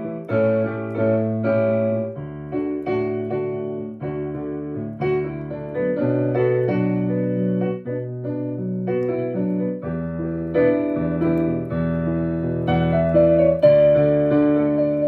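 Solo piano playing: chords struck in a steady pulse over held bass notes.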